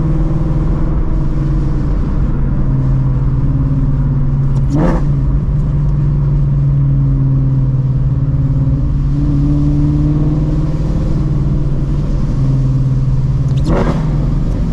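Shelby GT350's 5.2L Voodoo V8, breathing through long-tube headers, an X-pipe and a Borla cat-back exhaust, running steadily while driving. Two short sharp blasts about nine seconds apart, taken for rev-matched downshifts.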